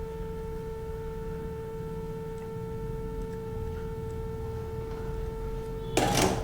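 A steady, even electrical whine with overtones. A brief rustling noise comes about six seconds in.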